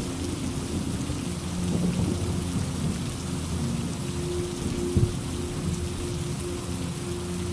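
Steady heavy rain with thunder rumbling low beneath it, swelling about two seconds in, with a sharp thunder clap about five seconds in.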